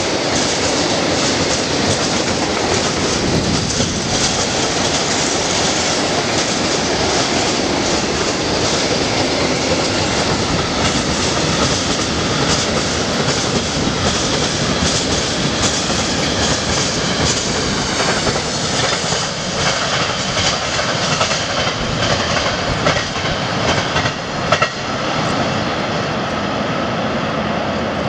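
Freight train of loaded tank wagons rolling past at speed: a steady rumble of steel wheels on rail with a rapid clickety-clack over the rail joints. It eases off in the last several seconds as the end of the train passes, with one sharp clack near the end.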